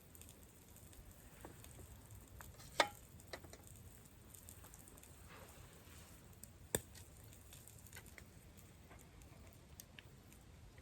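Campfire burning with soft crackling and scattered small ticks, and two sharper pops, one about three seconds in and another near seven seconds.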